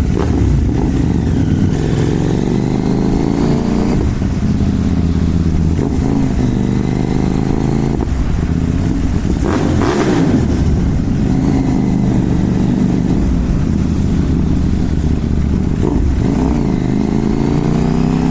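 CFMoto 800NK motorcycle's parallel-twin engine and exhaust pulling hard, its pitch climbing in long sweeps and dropping back several times, as when accelerating through the gears. There is a short, sharper burst of noise about halfway through.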